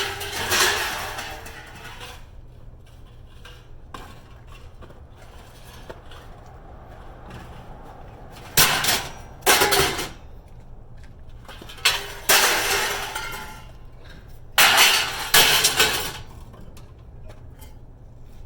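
Pieces of scrap metal clanking and clattering together in several separate bursts, one near the start and three more in the second half, over a steady low hum.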